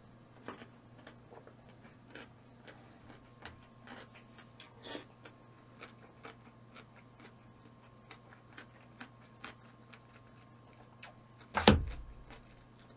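Faint eating sounds from a person: scattered small clicks of chewing and mouth noises, with one loud thump near the end.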